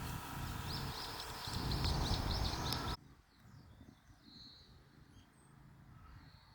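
Little ringed plover calling: a quick series of short, high notes, about four a second, over loud background noise. Then an abrupt drop to quiet, with a few single high calls.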